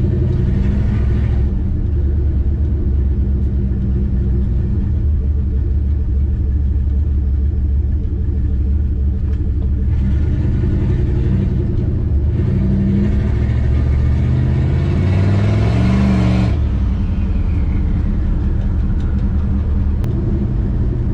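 Turbocharged 360 Magnum V8 with a GT45 turbo pulling a 1969 Plymouth Valiant along at part throttle. About ten seconds in it accelerates, its pitch rising with a growing hiss as the turbo spools up, then drops back off the throttle suddenly some six seconds later.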